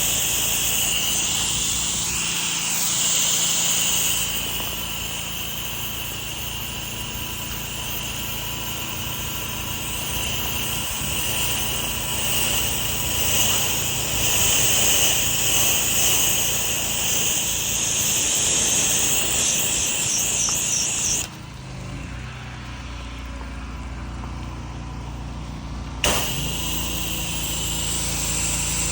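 Gas pressure washer running, its spray hissing steadily from the wand over the engine hum. About two-thirds of the way through the spray stops for a few seconds while the engine keeps running, then starts again with a sharp click.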